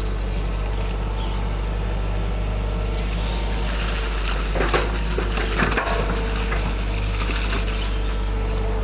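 Hydraulic excavator engine running steadily, with a cluster of cracking and crunching sounds around the middle as the machine works material in the ditch.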